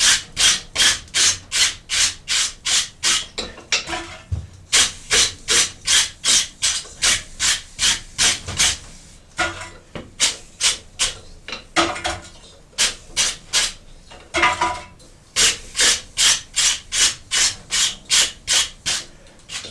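Hammer blows on a hot axe head over the anvil, in runs of about two to three strikes a second with short pauses between runs, the anvil ringing faintly under some blows.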